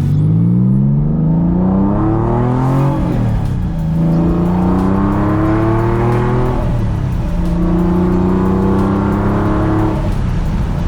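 Porsche 996 flat-six with a muffler delete accelerating through the gears: the engine note climbs, drops at an upshift about three seconds in, climbs again, drops at a second upshift around seven seconds, then pulls on more gently.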